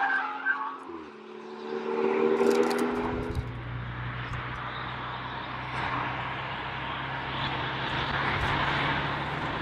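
Renault Mégane 4 RS's turbocharged four-cylinder engine, its pitch rising briefly in the first few seconds, then settling into a steady low drone with road noise.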